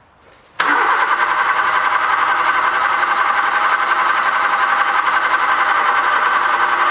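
Nissan Micra 1.2i's starter motor cranking the engine steadily without it catching, starting abruptly about half a second in. It is a crank-no-start that the mechanic traces to a faulty camshaft sensor (code P0340) giving a bad signal.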